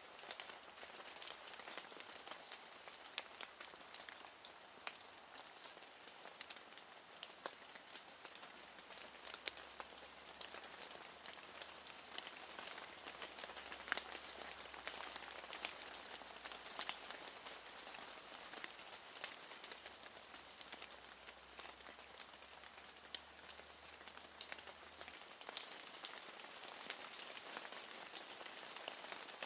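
Steady rain: an even, soft hiss with many small, sharp drop ticks scattered through it.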